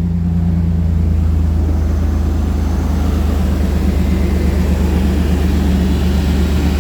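Vehicle engine idling steadily just after a cold start, with no rattle to be heard.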